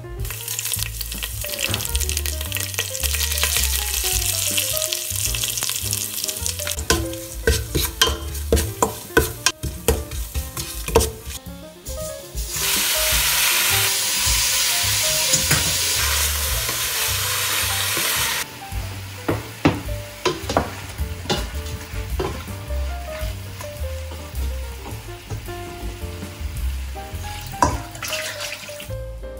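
Pork pieces and rosemary sizzling in hot oil in a stainless-steel pot, with a wooden spatula stirring and clicking against the pot. A louder, even sizzle holds for several seconds in the middle. Background music with a low, steady beat plays underneath.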